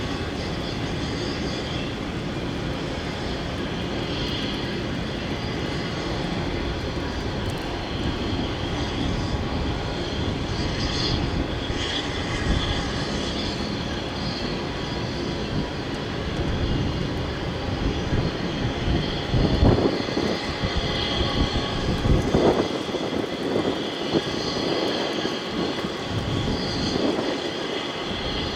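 Autorack freight train passing: a steady rumble and clatter of steel wheels on the rails, with a run of heavy clunks about twenty seconds in.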